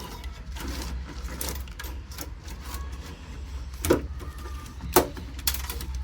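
Scattered clicks and knocks of tools and fittings being worked loose while a hot water heater is taken apart, the loudest two about four and five seconds in, over a steady low hum.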